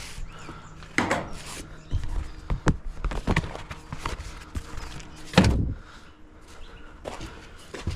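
Irregular knocks and clanks of dishwasher parts being handled and put down during a teardown, with the loudest thud about five and a half seconds in.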